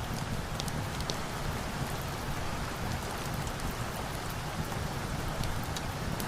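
Steady heavy rain, an even hiss with a low rumble beneath, dotted with scattered sharp ticks and pops.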